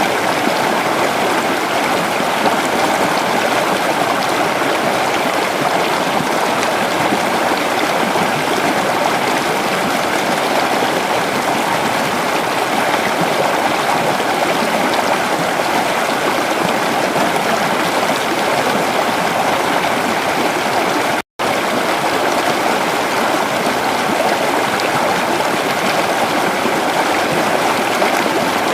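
Creek water flowing steadily, a continuous even rush. The sound cuts out for an instant about two-thirds of the way through, then carries on unchanged.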